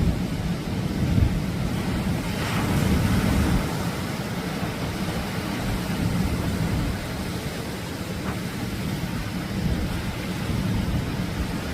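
Atlantic surf breaking and washing on a beach, with a louder wash of a wave about two and a half seconds in, under a low rumble of wind on the microphone.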